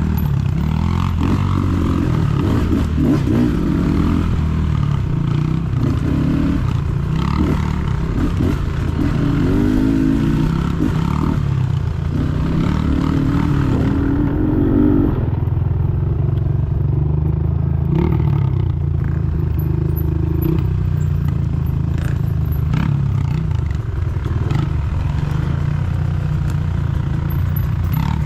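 Dirt bike engine running under way, its revs rising and falling as it rides, with occasional knocks and rattles from the bike.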